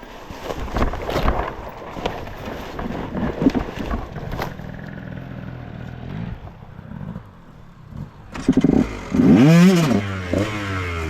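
Dirt bike engine running low under scattered clattering and scraping, then revved hard about eight seconds in, its pitch sweeping up and falling back before it settles to a steady lower note.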